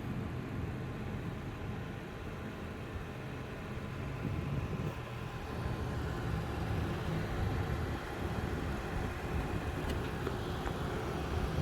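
Zotac Twin Edge RTX 3070 graphics card fans running with a steady, rough rattling buzz: the fan rattle fault on this card.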